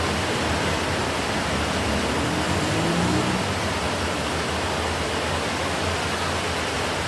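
Steady rain falling, an even hiss, over a low rumble of distant city traffic, with a faint rising tone about three seconds in.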